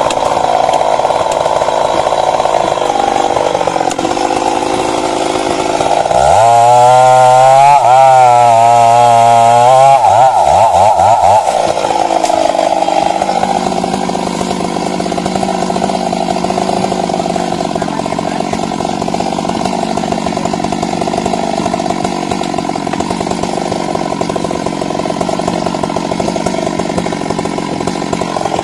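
Stihl MS 382 two-stroke chainsaw running throughout. About six seconds in it is throttled up to full revs, its pitch wavering, for several seconds, then drops back to a lower, steady run for the rest.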